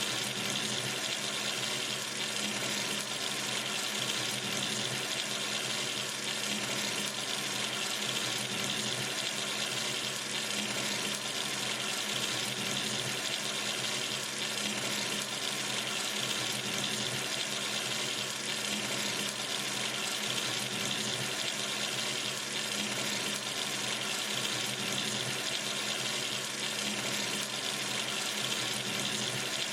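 Tap running steadily into a sink: an even, unbroken rush of water.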